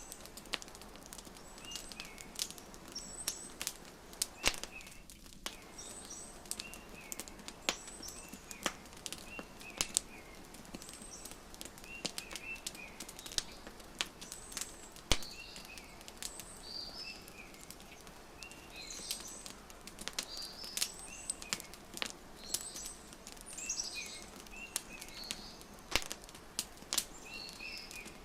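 Wood fire crackling, with irregular sharp pops and snaps over a soft steady hiss. Small birds chirp throughout in short high repeated notes.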